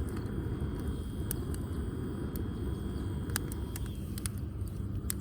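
Damp firewood burning in a wood grill, crackling with about ten sharp, irregular pops over a steady low rumble.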